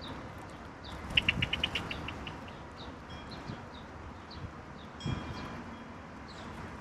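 Songbirds chirping with many short, quick calls. About a second in, one bird gives a louder, fast run of about ten short notes that slows as it goes.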